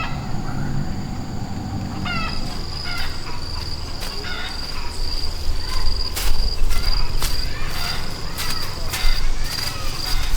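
Insects trilling in one steady high note that sets in about two seconds in and carries on, with short chirps over it. Several sharp knocks come in the second half.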